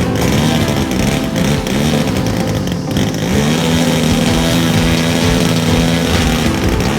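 OS 60cc gasoline two-stroke engine of a radio-controlled Pitts biplane running in flight, its pitch rising and falling through the first few seconds, holding steady at a high pitch in the middle, and dropping again near the end.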